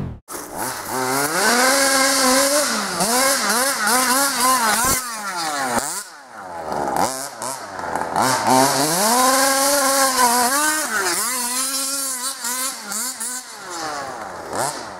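A 26cc Zenoah two-stroke engine with a DDM Dominator low-end tuned pipe, in an FG Marder RC car, revving up and down over and over, its pitch climbing and falling every second or two.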